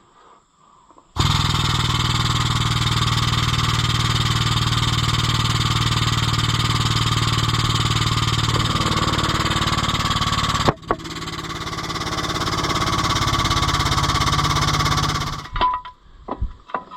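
An engine running steadily. It starts abruptly about a second in, drops out for an instant near the eleven-second mark, then builds a little in loudness before cutting off a second or so before the end.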